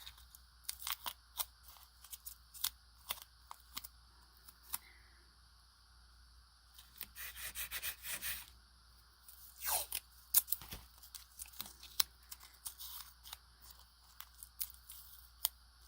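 Paper and masking tape being handled by hand: irregular crinkles, taps and short tearing sounds, with a longer rustle about seven to eight seconds in.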